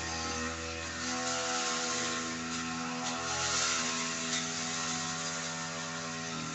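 Brush cutter's small engine running steadily while cutting thick grass, with a rushing noise that swells from about one to four seconds in.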